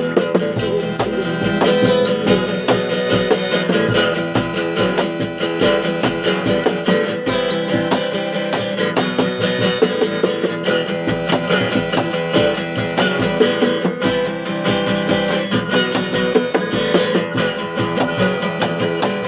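Live rock band playing an instrumental passage: strummed guitars driving a fast, steady rhythm with no vocals.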